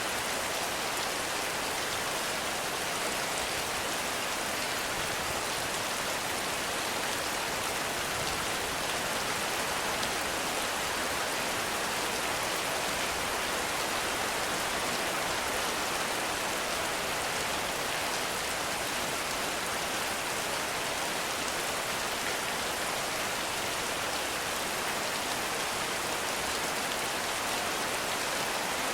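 Heavy rain falling steadily in a forest, a constant dense hiss of rain.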